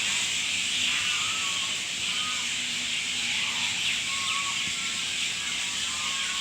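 Outdoor nature ambience: a steady high-pitched hiss with short chirping bird calls repeating about once a second.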